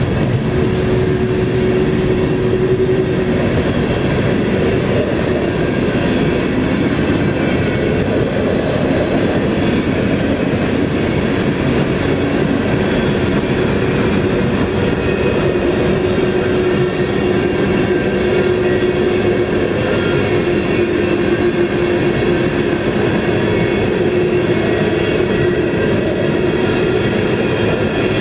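Empty steel coal hopper cars rolling past close by: steady rumble and clatter of steel wheels on the rails. A thin steady tone, likely from the wheels, sounds at the start and again through the second half.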